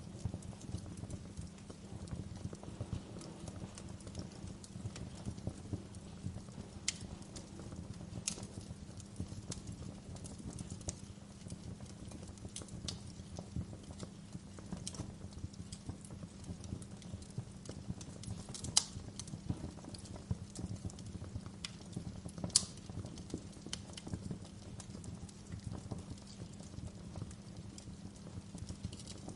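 Wood fire in a fireplace crackling steadily over a low rumble, with a handful of louder, sharper pops, the two loudest a little past the middle.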